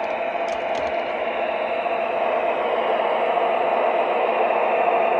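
Sound-equipped model train locomotive running on its layout: a steady engine sound from its onboard speaker mixed with motor and track noise, building slightly, with a couple of faint clicks about a second in.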